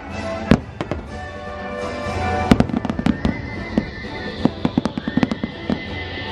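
Aerial fireworks going off in a string of sharp bangs, with quick runs of crackling pops at about two and a half seconds in and again from about four and a half seconds. Show music plays underneath throughout.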